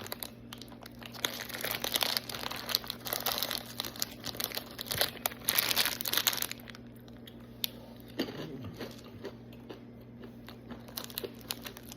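Plastic snack packaging crinkling and rustling, with crunching as toasted Japanese-style coated peanuts are handled and eaten. It is busy for about the first seven seconds, then sparser, over a steady low hum.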